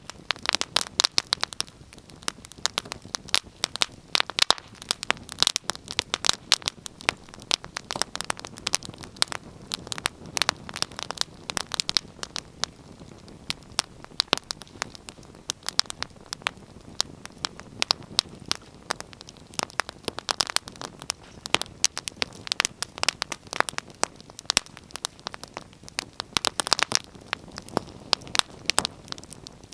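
Fire crackling in a fireplace: a dense, irregular stream of sharp pops and snaps over a soft hiss.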